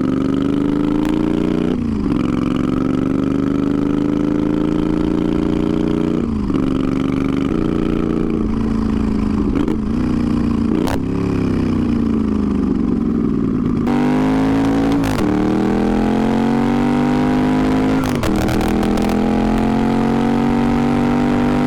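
Twin-turbocharged Moto Guzzi V50 III V-twin engine running loud under riding, accelerating through the gears: its pitch climbs, then drops back sharply at each change, about eight times.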